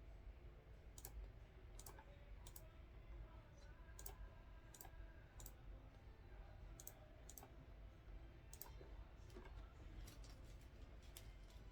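Clicking at a computer: sharp single clicks at irregular intervals, about one a second, over a low steady hum.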